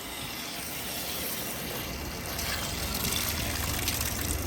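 Running water rinsing out an RO-DI filter housing, the flow getting stronger about two seconds in.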